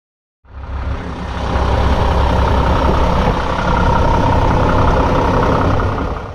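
Diesel engine of a 2020 Mack GR64FR dump truck running steadily: a deep rumble with a steady whine on top. It starts suddenly about half a second in, builds a little over the first second or so, and cuts off abruptly at the end.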